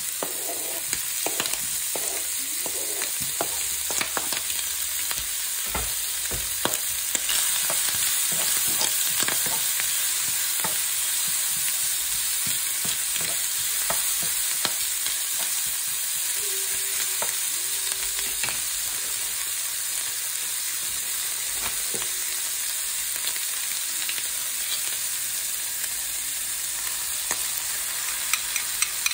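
Diced ham, onion and cherry tomatoes sizzling steadily in a nonstick frying pan, stirred with a spatula that scrapes and taps against the pan now and then.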